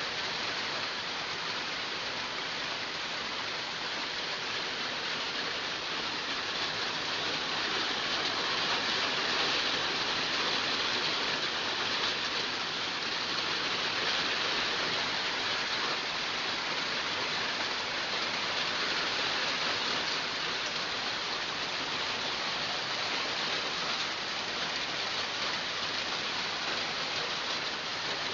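Heavy rain falling and pattering on surfaces in a steady hiss, swelling slightly in the middle.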